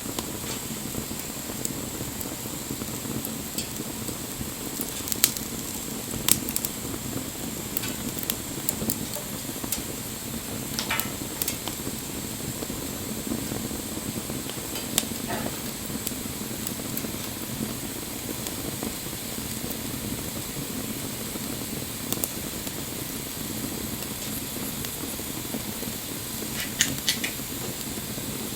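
Wood bonfire burning with a steady low rush, and the wood crackling and popping in sharp, scattered snaps, a few of them louder.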